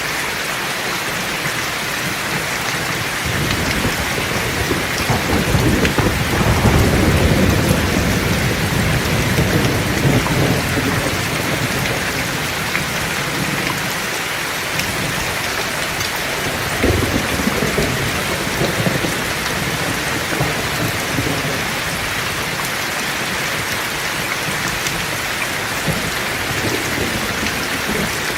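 Heavy rain falling steadily, with a long rolling thunder rumble that builds about three seconds in, swells and then fades away, and a shorter crack of thunder later on.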